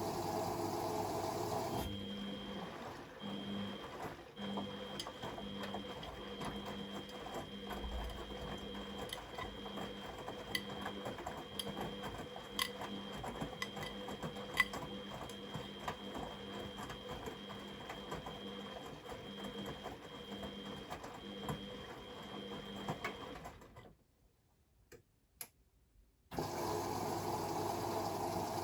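Beko WMD 46160 front-loading washing machine running a wash cycle with water inside. A steady hum gives way about two seconds in to a pulsing hum with light clicks. Near the end it goes nearly silent for about two seconds, then the steady hum comes back.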